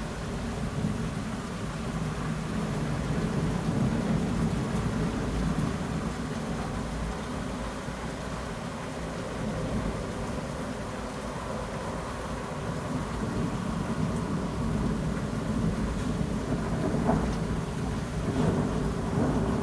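Heavy rain falling steadily, with low rolling thunder that swells about four seconds in and again near the end.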